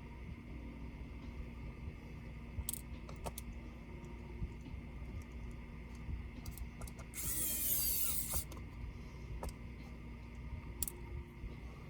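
Light clicks from handling laptop parts and tools. About seven seconds in comes a harsh rasp lasting just over a second, with a falling whine inside it.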